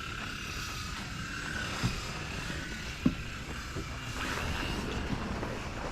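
Steady drone of a distant motor, with a couple of soft knocks about two and three seconds in.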